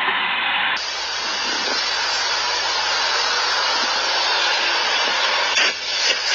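Steady hiss of road and wind noise from a moving vehicle. The noise changes abruptly about a second in, and a few sharp knocks come near the end.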